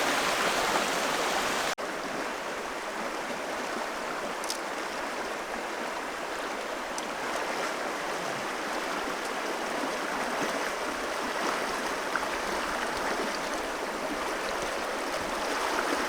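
Steady rush of flowing river water, with an abrupt cut about two seconds in to a slightly quieter stretch of the same rushing sound.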